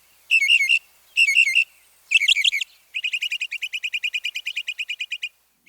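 Northern mockingbird singing: a short phrase repeated twice, then a different phrase, then a rapid trill of about ten notes a second.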